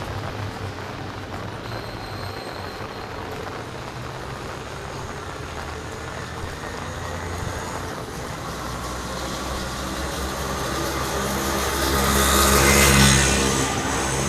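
A motor vehicle's engine grows louder as it approaches, passing close by near the end, over steady street traffic noise.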